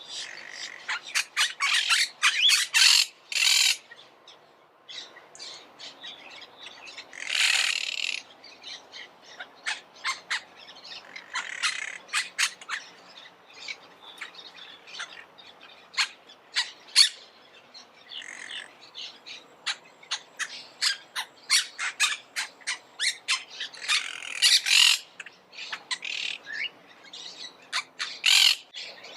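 Monk parakeets calling: a stream of rapid short chirps broken by a few longer squawks, about every few seconds.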